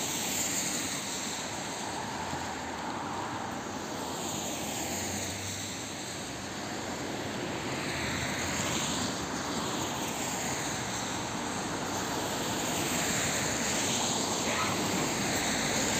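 Rushing rumble of an approaching train, its tone shifting in slow sweeps and growing slightly louder toward the end.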